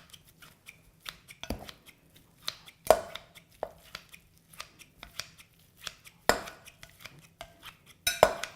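Salad chopper blades snipping through cooked chicken in a bowl: an irregular run of quick clicks and snips, with a few louder clacks scattered through.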